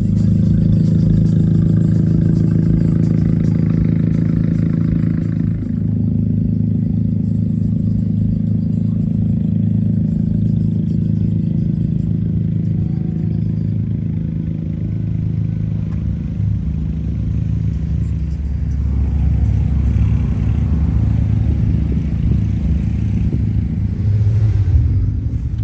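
A car engine running at a steady idle with a deep rumble; the low rumble gets heavier over the last several seconds.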